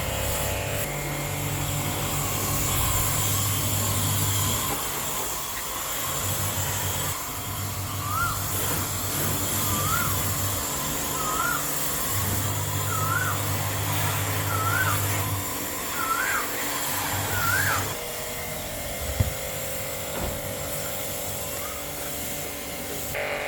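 Electric car-wash pump (pressure washer) spraying water, its motor hum starting and stopping in spurts over a steady hiss. Through the middle, a short rising-and-falling chirp repeats seven times about a second and a half apart.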